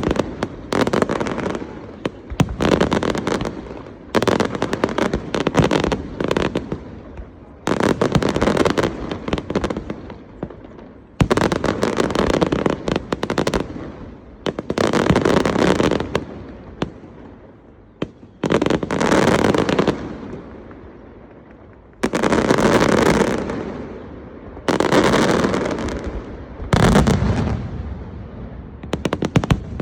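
Large aerial fireworks display: rapid volleys of shell bursts and crackling, coming in waves every few seconds, each wave starting suddenly and fading off before the next.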